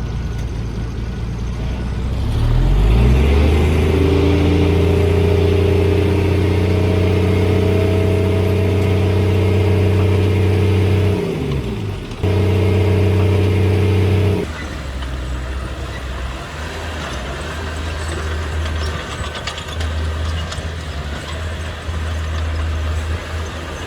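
Heavy diesel engine of earthmoving equipment running, then revving up about two and a half seconds in and holding high revs with a strong, even hum. The revs dip briefly and come back, then drop away suddenly, leaving a lower engine rumble to the end.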